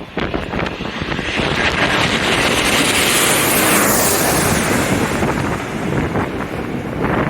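Jet airliner passing low overhead on final approach to land, its engine noise swelling to a peak about three to four seconds in, then dropping in pitch as it moves away. Strong wind buffets the microphone throughout.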